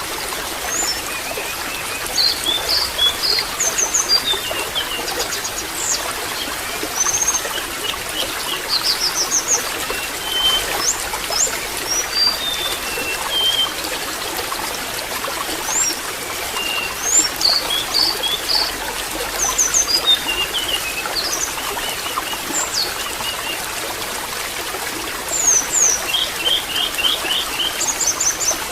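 Water trickling steadily, with small birds chirping over it in scattered clusters of short high chirps and quick trills.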